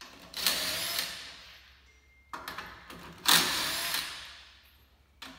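Impact wrench spinning lug nuts off a pickup's wheel, two separate bursts of rattling, each loudest at its start and tailing off as the nut runs free.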